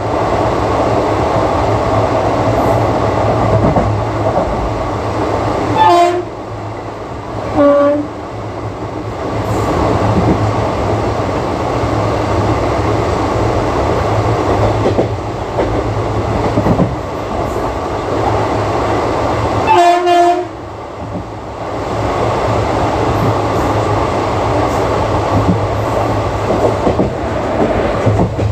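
Indian Railways ICF passenger coach running at speed, with a steady rumble and rattle of wheels on the track. The WAP-4 electric locomotive's horn sounds three short blasts: two close together about six and eight seconds in, and one more about twenty seconds in.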